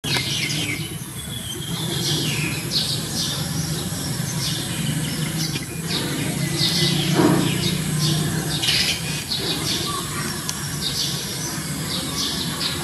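Small birds chirping over and over in short, high calls, over a steady low hum.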